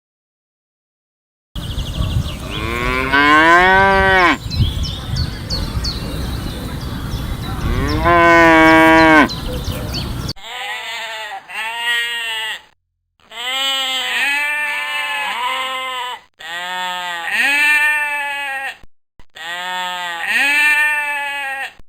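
Cattle mooing: two long moos that rise and fall over a noisy background. After that comes a cleaner run of about eight shorter, higher calls with short gaps between them.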